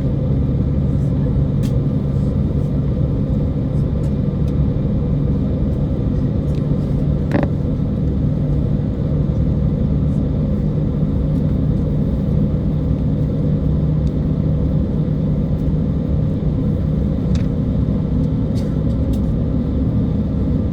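Steady cabin rumble of an Embraer E190 rolling on the ground with its twin jet engines running, a low hum holding level throughout. A few faint clicks or rattles sound along the way.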